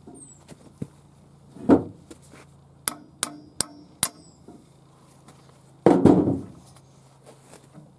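Hammer blows on metal: four sharp ringing clanks about a third of a second apart, with a heavier dull knock before them and a longer, heavier knock after.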